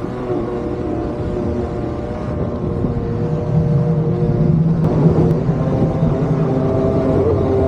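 Motorised surfboard (motosurf) engine running on the water, a steady motor drone with a deeper hum joining in from about three and a half seconds in.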